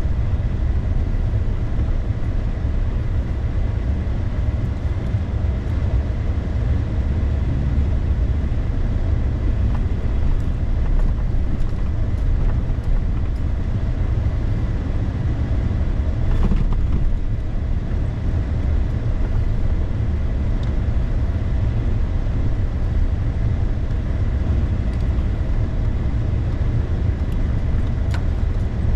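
Crew cab pickup truck driving on a snowy road: a steady low rumble of engine and tyre noise with no change in pace.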